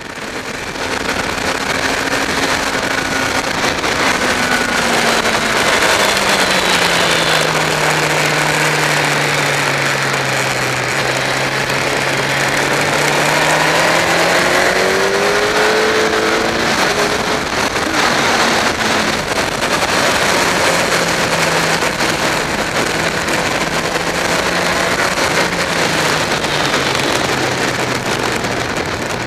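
Sport motorcycle engine heard from on board at track speed, over heavy wind rush. The engine note falls slowly as the bike slows into corners, climbs quickly as it accelerates out about halfway through, and eases off again near the end.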